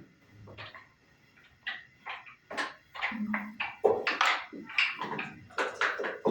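Backgammon checkers and dice clacking on the board: a quick, irregular series of sharp knocks, thickest from about three seconds in.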